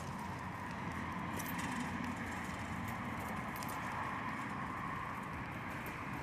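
Bicycle rolling along a path: a steady hum of tyre and wind noise, with a few light clicks.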